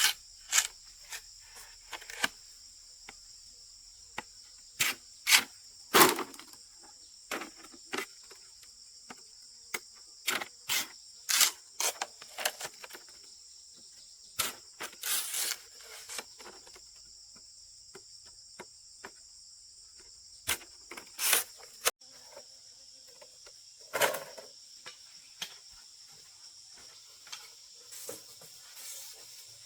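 Steady high-pitched insect chorus, with irregular sharp knocks and short scraping sounds over it, the loudest of them about six seconds in and again around fifteen and twenty-four seconds in.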